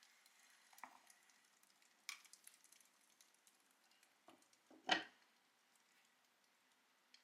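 Faint scattered clicks and taps, with one much louder short knock just before five seconds in; otherwise very quiet.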